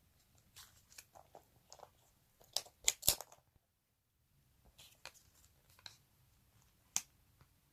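Light paper crinkles and taps from sheet stickers being peeled and pressed onto a folded paper aeroplane, with a short cluster of louder crackles about two and a half seconds in and one more sharp crackle near the end.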